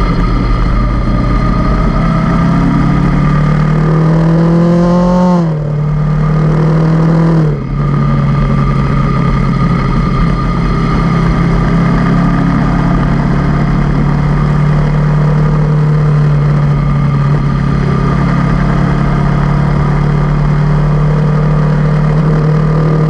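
Honda CB500X parallel-twin motorcycle engine under way: it revs up, drops in pitch as it shifts up about five seconds in, dips briefly again a couple of seconds later, then holds a steady cruising drone.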